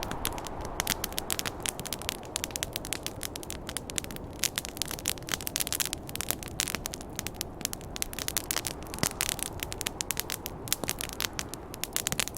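Campfire crackling: a dense, irregular run of sharp pops and snaps from burning wood over a steady low rushing noise.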